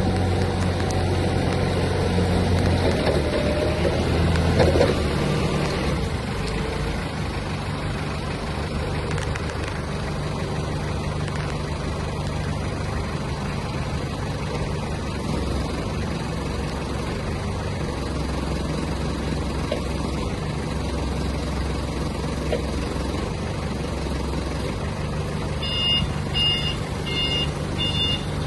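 Hyster H3.5UT diesel forklift engine running steadily at idle, a little louder for a couple of seconds early on. Near the end its reversing alarm starts beeping, about two beeps a second.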